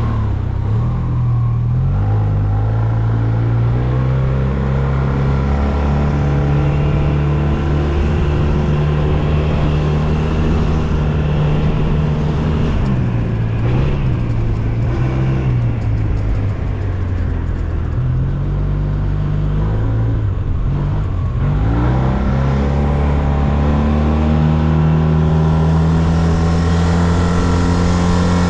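SYM Maxsym TL 508 maxi-scooter's parallel-twin engine running under way at a steady pitch. It eases off twice and picks up again each time, the second time with a long rising pitch as it accelerates.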